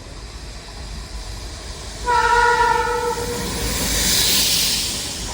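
Electric freight locomotive's air horn sounding one steady note for about a second, about two seconds in, followed by the loud rushing noise of the train passing close by, swelling and then easing off near the end.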